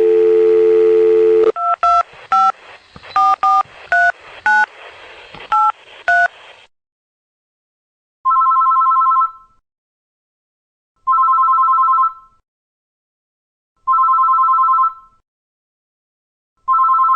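Telephone call sound effect: a dial tone for about a second and a half, then a number keyed in as a quick string of touch-tone beeps, then an electronic ringer warbling in short bursts, four times at even intervals.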